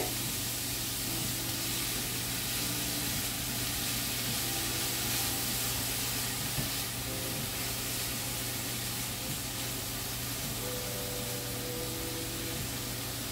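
Broccoli florets and onions sizzling in oil in a stainless steel skillet, a steady hiss as they cook and steam, stirred now and then with a turner.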